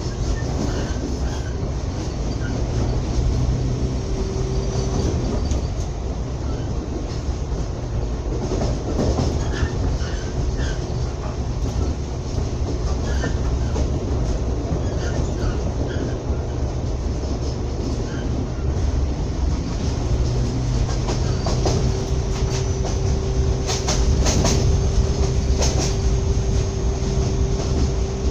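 Train rolling along the track, heard from inside a carriage: a steady rumble of wheels on rail, with a faint steady whine joining about three quarters of the way through and a few sharp clicks near the end.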